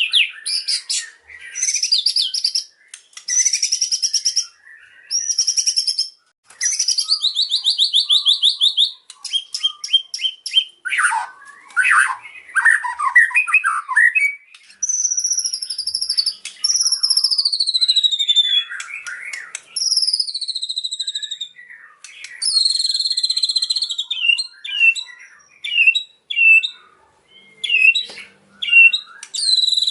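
White-rumped shama (murai batu) singing a long, varied song of loud whistles, fast rattling trills and several long notes sliding downward, packed with the imitated calls it has learned.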